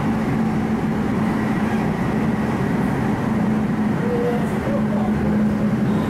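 Steady cabin noise inside an MTR Tung Chung Line K-train: an even rumble with a constant low hum.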